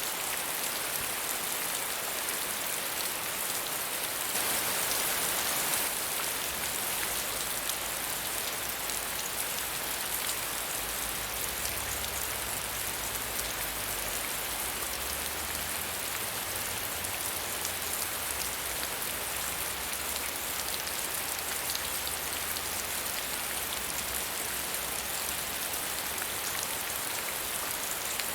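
Steady medium rainfall with dense pattering drops, a little heavier for a couple of seconds about four seconds in.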